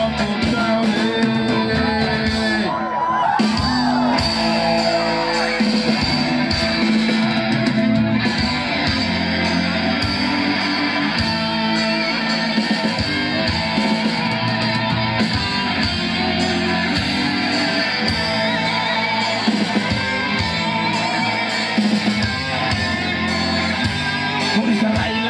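Live band music, amplified and loud, led by guitar, with singing.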